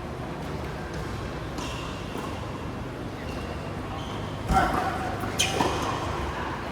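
Two sharp racket hits about a second apart, the first the louder with a short ring after it, over steady court background noise.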